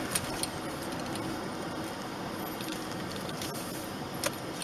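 Steady road and engine noise heard inside a moving car's cabin, with a few faint clicks.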